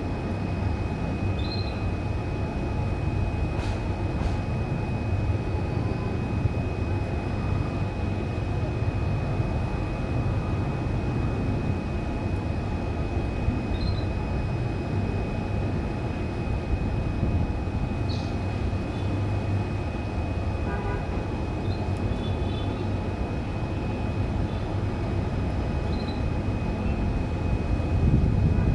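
Steady low rumble with a constant thin high whine. Now and then a few brief, faint canary chirps.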